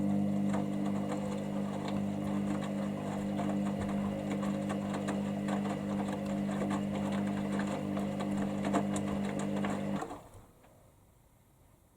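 Hoover Dynamic Next washing machine's motor turning the drum in the rinse: a steady hum with faint clicks, which stops suddenly about ten seconds in.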